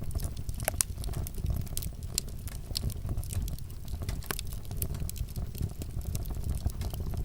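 Wood fire burning in a fireplace, with a steady low rumble of flame and frequent irregular sharp crackles and pops.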